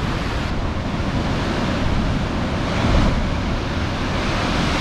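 Ocean waves surging into a coastal rock pool, a continuous rush of breaking water that swells to its loudest about three seconds in, with wind buffeting the microphone.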